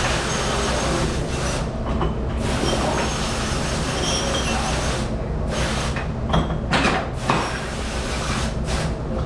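Commercial dishwashing machine running in a busy dish room: a steady mechanical rumble with a constant hiss over it.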